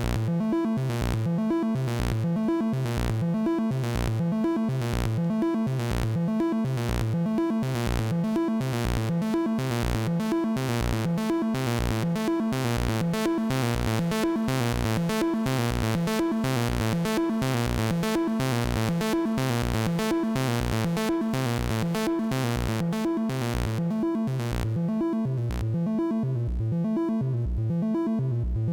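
Analog synthesizer music from a Make Noise Strega and 0-Coast: a steady pulsing sequence of about two beats a second over sustained tones, the bright top end dimming near the end.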